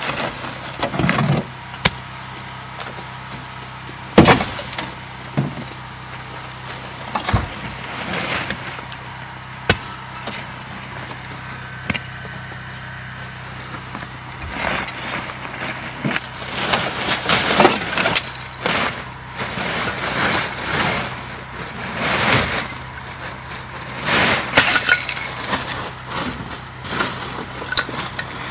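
Built-up ice cracking and breaking off a tarp, with chunks crashing and shattering in repeated irregular bursts, heavier toward the end.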